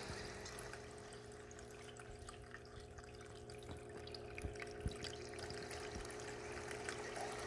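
Small paludarium waterfall trickling faintly, with a few separate drips.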